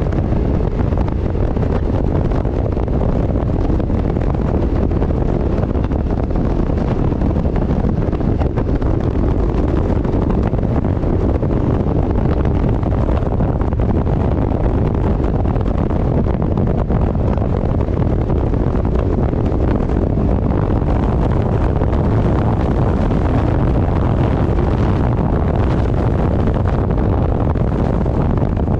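Steady wind rush buffeting the microphone of a 1000 cc motorcycle riding at speed. It is a deep, even rumble with no breaks, and the bike's running noise is mixed in beneath it.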